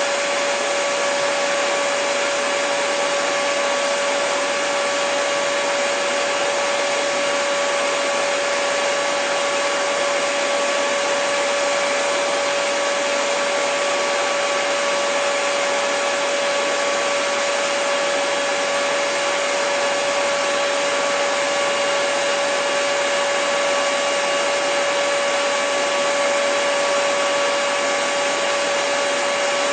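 Hair dryer running steadily: a constant rush of blown air with an unchanging motor hum.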